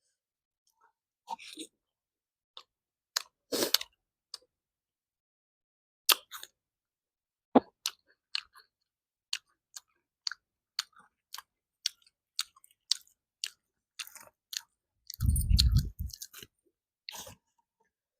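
Close-miked chewing of food: a string of short, irregular crunches and wet mouth clicks. A louder, deeper sound lasting just under a second comes about fifteen seconds in.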